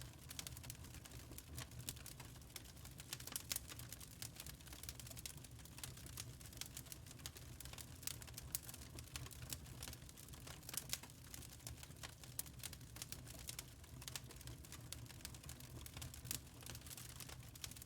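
Wood fire crackling in a fireplace: irregular sharp crackles and snaps over a steady low rumble.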